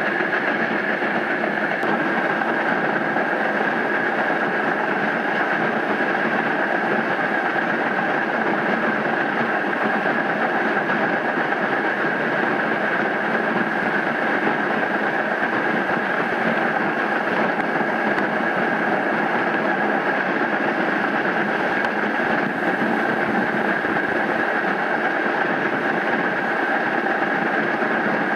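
Steady, unbroken running noise of a passenger train under way behind Union Pacific 4-6-6-4 Challenger steam locomotive 3985, heard from one of its cars. It is an even roar with no distinct exhaust beats.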